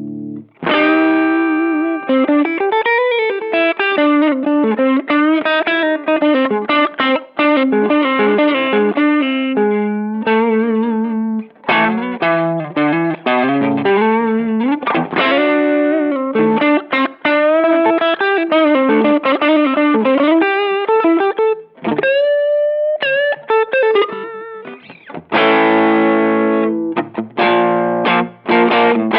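Electric guitar played through a Behringer Vintage Overdrive TO100, a Tube Screamer-style overdrive pedal, with a saturated overdriven tone. Quick lead lines with bends, a brief pause and a few single notes near the end, then chords.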